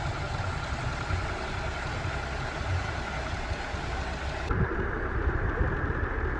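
An engine idling steadily with a low rumble. About two-thirds of the way through, the higher hiss cuts out suddenly while the rumble carries on.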